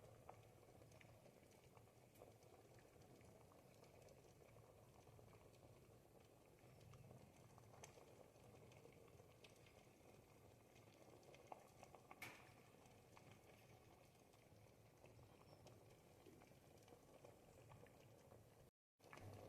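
Thick ribollita soup simmering in a pot over the heat, bubbling faintly with scattered small pops. The sound drops out for a moment near the end.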